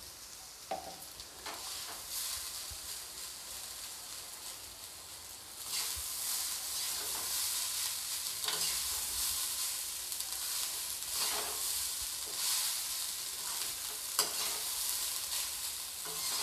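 Vegetable fried rice sizzling in a hot kadai while being stirred and tossed with a spatula, which scrapes and knocks against the pan every few seconds. The sizzle grows louder about five seconds in.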